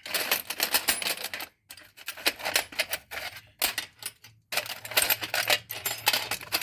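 Small metal Allen wrenches rattling and clinking against each other in a box, in quick clattering bursts with brief pauses, as the pile is rummaged through for the right size.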